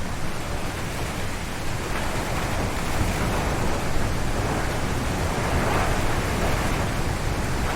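Strong wind gusting through forest trees: a steady rushing noise with a deep rumble underneath, swelling a little about halfway through.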